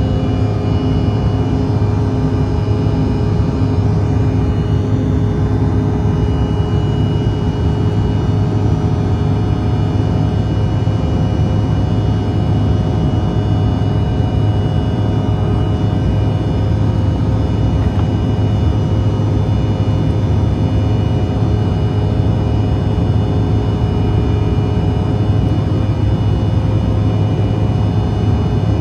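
Cabin noise inside a CRJ-900 airliner in flight: its two rear-mounted GE CF34 turbofan engines running at steady power. The sound is a constant drone with a strong low hum and several steady whine tones, one of them high-pitched.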